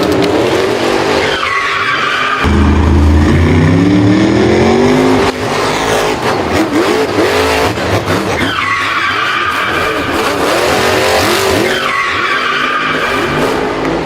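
Racing vehicle engine revving, its pitch climbing steadily for a few seconds. Tires squeal three times, each squeal sliding down in pitch.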